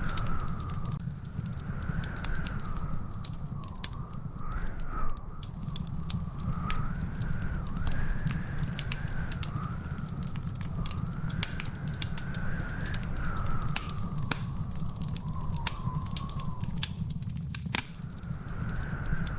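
Wood fire crackling with frequent sharp pops over a steady low rumble, with a thin whistling tone that slowly wavers up and down in pitch.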